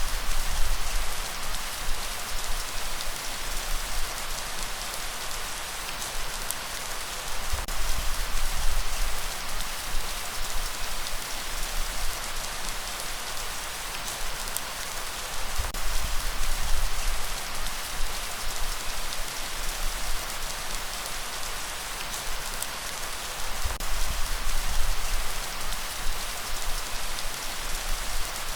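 Light rain falling steadily, a dense patter of drops, with a low rumble of breeze that swells about every eight seconds.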